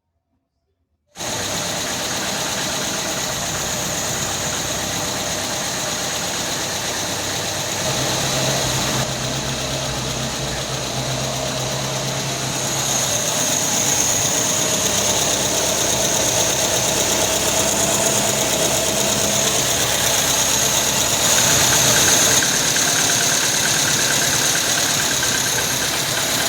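Ford Del Rey's CHT engine running steadily, starting suddenly about a second in and getting a little louder about halfway. The timing chain has just been replaced and its rattle is gone; the remaining noise, which the owner puts down to something knocking in the bottom end, is from the engine itself.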